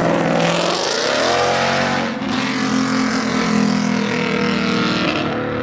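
Car engine revving up hard: its pitch rises about a second in, then holds at high revs as the car accelerates away.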